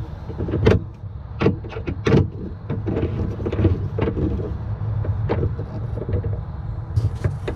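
Hand tools clicking and knocking against metal fittings, about half a dozen separate knocks, over a steady low hum.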